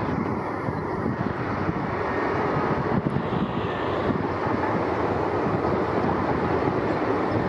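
Earthmoving dirt scrapers running steadily, a dense diesel engine rumble.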